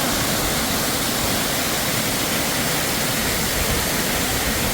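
Desert canyon waterfall: a steady, loud rush of falling water close by.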